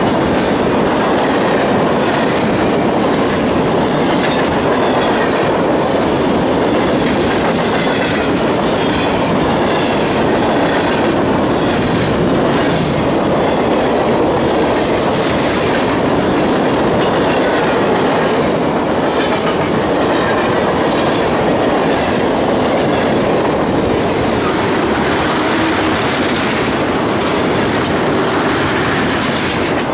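Freight train cars rolling past close by, loud and steady, with the wheels clattering over the rails.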